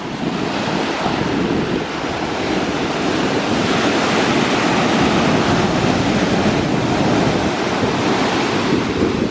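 Atlantic Ocean surf breaking and washing ashore, a steady loud rush that swells about halfway through, with wind buffeting the microphone.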